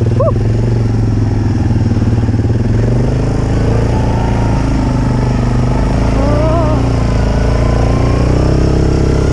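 ATV engine running steadily while being ridden, its pitch rising slightly near the end.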